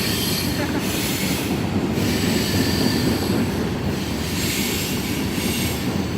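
Train cars rolling past with a steady rumble of steel wheels on rail, and a faint high wheel squeal.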